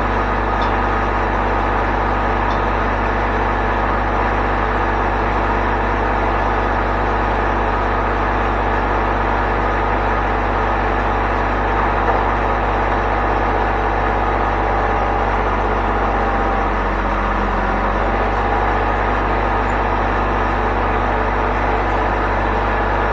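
An engine running steadily at a constant speed, its pitch dipping briefly and recovering about 17 seconds in.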